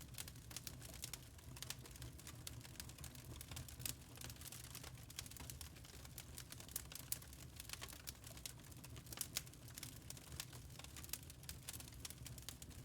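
Wood fire crackling in a fireplace: a dense, irregular run of small snaps and pops, a few louder than the rest, over a low steady rumble.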